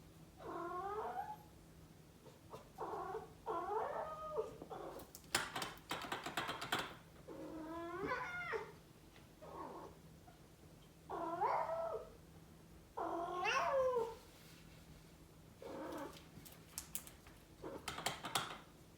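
Norwegian Forest Cat meowing repeatedly, about eight drawn-out calls that rise and fall in pitch, in a demanding way that marks a cat wanting to be let outside. Two bursts of sharp rattling clicks come between the calls, one near the middle and one near the end.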